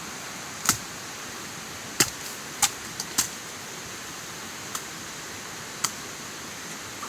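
A blade chopping into a young bamboo shoot: about seven sharp knocks at uneven intervals, most of them in the first half, over a steady hiss of rain.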